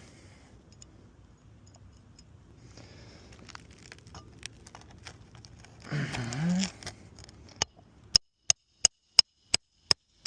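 Hammer driving a roofing nail to set a lifted asphalt shingle flush: a quick run of about eight sharp, ringing strikes, roughly three a second, starting about three-quarters of the way in.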